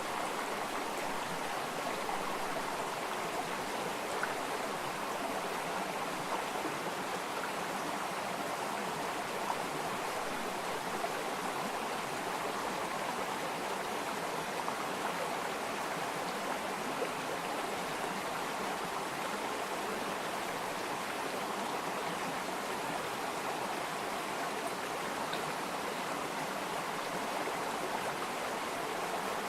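Water flowing steadily in a stream, an even rushing babble with small splashes.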